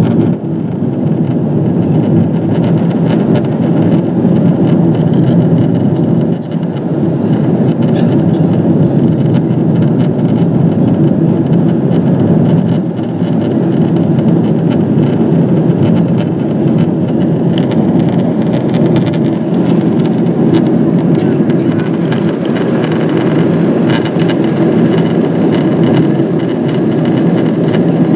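Steady cabin roar inside a Boeing 777-200ER during its descent: engine and airflow noise, loud and even.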